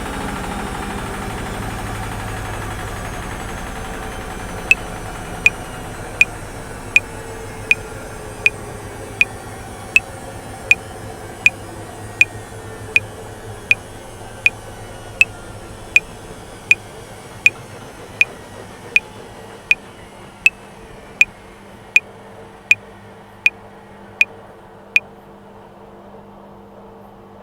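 Metronome clicking at 80 bpm in 7/4, about 28 clicks with every seventh one accented, which then stop about 25 seconds in. Underneath, a washing machine whirs, its hum falling in pitch and fading as it winds down.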